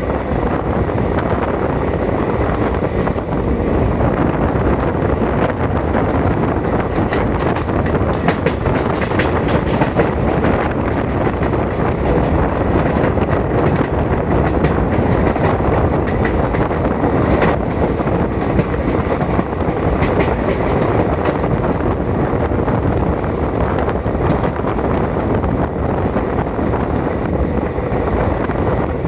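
Passenger train running along the track, heard from on board: a loud, steady rumble of wheels and rails with scattered sharp clicks and knocks.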